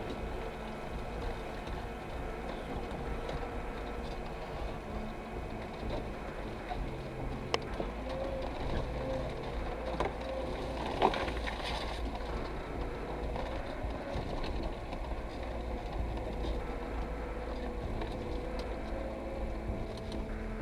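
Lada Niva 4x4 driving off-road: steady engine and drivetrain noise with a wavering whine, and a few sharp knocks near the middle, the last one the loudest.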